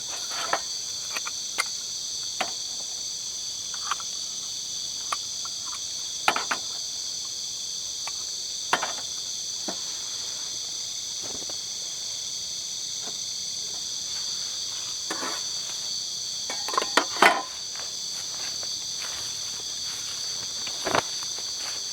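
Steady, high-pitched chorus of night insects in several layered bands, with scattered sharp clicks and knocks. The loudest are a short cluster about three quarters of the way through and one more near the end.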